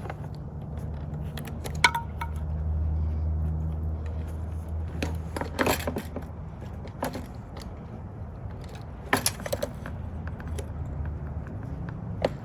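Scattered metallic clinks and rattles, some ringing briefly, from the chain and rear wheel of an e-bike being worked back into the frame, over a steady low hum.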